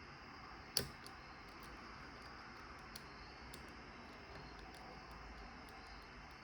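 Lock picks working the pins of a padlock: faint scattered metallic ticks, with one sharper click about a second in.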